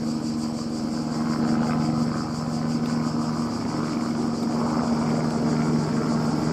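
Airbus AS350 single-turbine helicopter in flight, running steadily: a steady engine hum and turbine whine with the rotor's fast, even beat.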